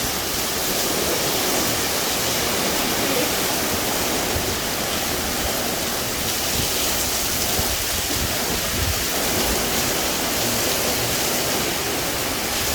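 Steady, even rushing outdoor noise with an uneven low rumble underneath, the sound of wind, rain or running water.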